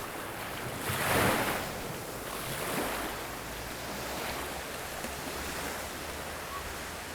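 Sea waves breaking and washing up the beach, with the biggest surge about a second in and smaller ones after. Wind buffets the microphone underneath. The surf is whipped up by westerly winds.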